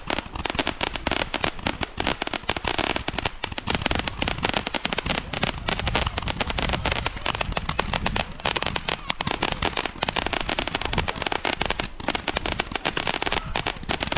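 Fireworks going off in a dense, unbroken barrage of many overlapping bangs and crackles.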